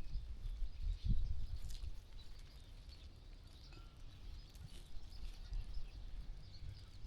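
Quiet sheep-farm ambience. A low, uneven rumble and a soft knock about a second in give way to a calmer stretch with faint scattered high ticks and short chirps.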